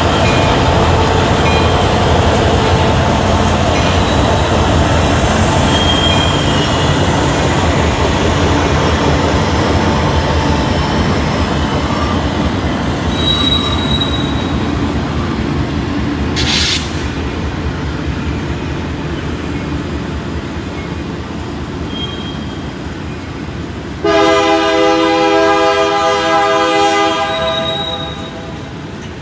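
Freight train passing close by: the steady rumble of Union Pacific and CSX diesel-electric locomotives gives way to rolling freight cars, with faint brief wheel squeals and a short hiss about halfway through. Near the end a train air horn blows one long chord for about three and a half seconds.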